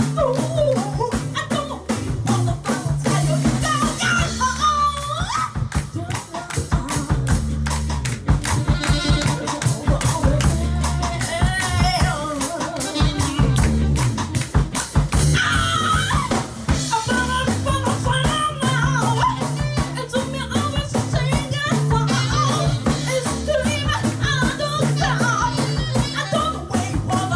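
Live band music: a drum kit keeping a steady beat under a bass line, with singing on top.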